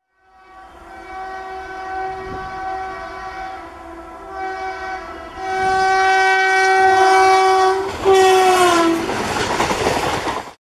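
A WAG-5 electric locomotive's horn sounds in several long blasts, growing louder as it approaches. About eight seconds in, the horn's pitch drops as the locomotive passes, then the loud rush and clatter of the coaches going by at speed follows and cuts off suddenly.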